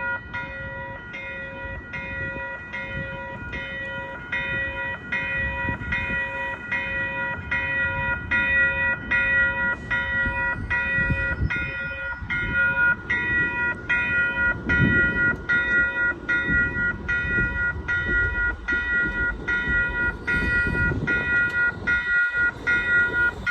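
Railroad crossing warning bell ringing continuously, about two strikes a second, over a low rumble that grows louder in the second half.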